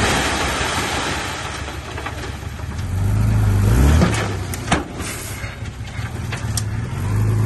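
Bulldozer's diesel engine running under load, its pitch climbing for about a second midway as it revs up, then settling back. A few sharp knocks come just after the rev.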